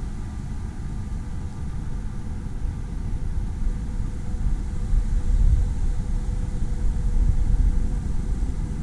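Wind buffeting the microphone: a low rumble that swells in gusts, strongest about halfway through.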